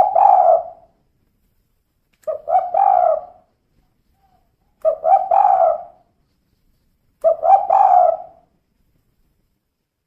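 Female spotted dove (tekukur) cooing: four phrases about two and a half seconds apart, each a quick run of notes lasting about a second.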